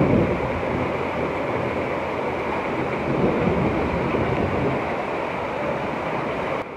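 Heavy downpour during a storm: a dense, steady roar of rain that cuts off abruptly near the end.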